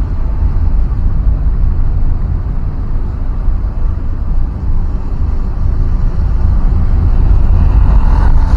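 Steady low rumble of a road vehicle on the move, engine and road noise, with a brief higher-pitched sound near the end.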